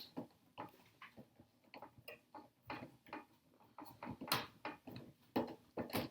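Irregular small clicks and taps of a 7mm nut driver turning a nylon-insert wheel nut onto an RC truck's hex hub, with the plastic wheel shifting in the hand.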